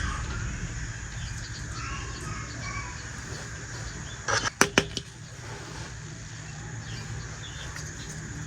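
A brief rustle followed by two sharp clicks, about four and a half seconds in, over a steady low background rumble.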